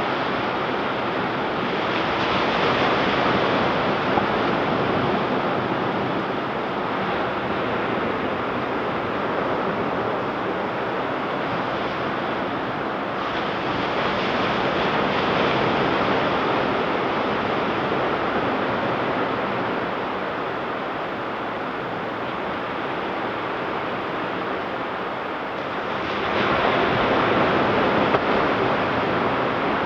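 Ocean surf washing onto a beach: a continuous rush of breaking waves that swells louder about every twelve seconds as each wave comes in.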